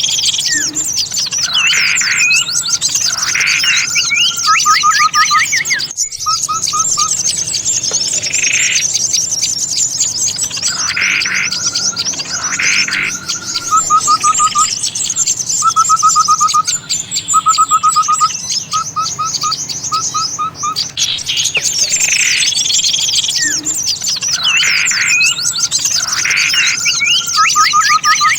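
Bird-lure recording of many small songbirds calling together: a dense high chatter of chirps over repeated lower whistled calls and short rapid trills, with the same sequence recurring. The sound drops out briefly about six seconds in.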